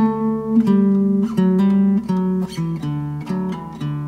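Background music: an acoustic guitar playing plucked notes.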